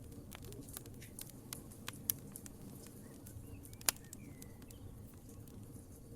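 Wood fire crackling in a fireplace: scattered small snaps and ticks over a low rumble of burning, with two louder pops about two and four seconds in.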